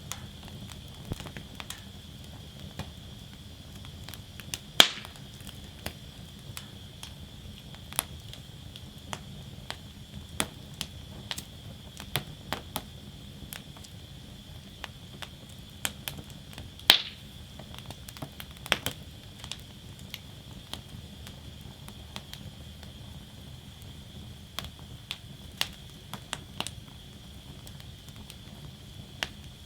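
Wood fire burning in a fire basket: a steady low rumble with scattered sharp crackles and pops, two loud pops about five seconds in and again about seventeen seconds in.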